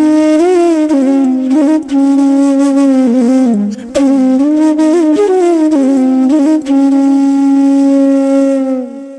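Background music: a flute melody of long held notes with gentle bends, a short pause between phrases, and the last note fading away near the end.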